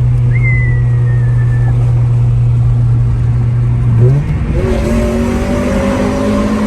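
1998 Honda Prelude's four-cylinder engine pulling hard through a new aftermarket exhaust, holding a loud, steady note. About four seconds in the note breaks off briefly, then comes back higher and climbs slowly as the car keeps accelerating.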